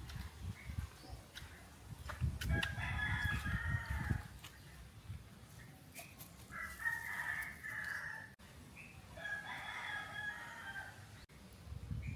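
A bird calling: three long calls, each over a second long and a few seconds apart, with low rumbling under the first one.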